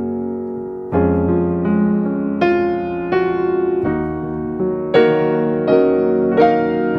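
Background piano music: slow melody notes over sustained chords, with a fresh chord struck about a second in.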